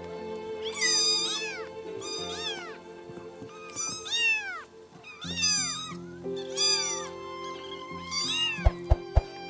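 Domestic cat meows, about six of them, each rising then falling in pitch, over background music. A few sharp clicks come near the end.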